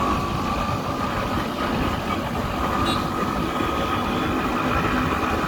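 Small motorbike engine running steadily while riding, with a faint whine that rises a little in pitch, over road and wind noise.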